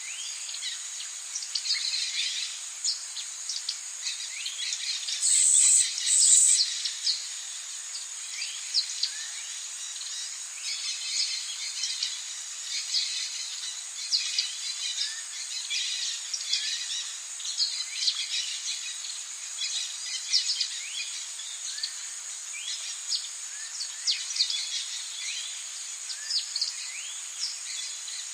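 Rainforest ambience: many birds chirping and calling over a steady high-pitched insect drone. Two short, loud, high calls stand out about five and six seconds in.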